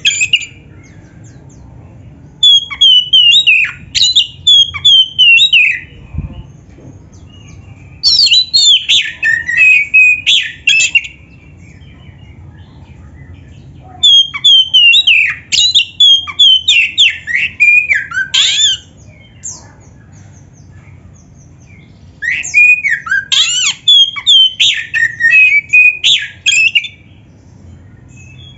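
Oriental magpie-robin (kacer) in full fighting song: four loud bouts of varied whistles and rapid chattering notes, each a few seconds long, with short pauses between.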